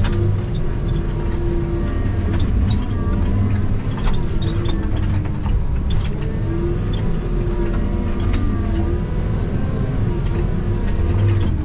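Log skidder's diesel engine running steadily under load, with scattered clanks and knocks from the machine as it works.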